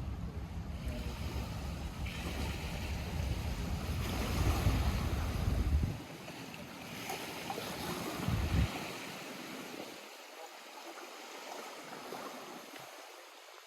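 Small lake waves lapping at the shore. Wind buffets the microphone with a low rumble through the first half, cutting off about six seconds in, with one last gust a little later, after which only the quieter lapping remains.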